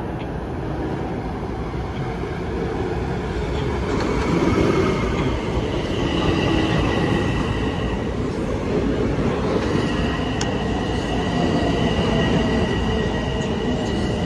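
Train running on the rails: a steady rumble, joined by a high, steady squeal about six seconds in and again from about ten seconds.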